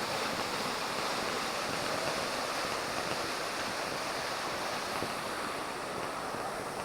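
Waterfall water rushing steadily, a constant even noise with no breaks.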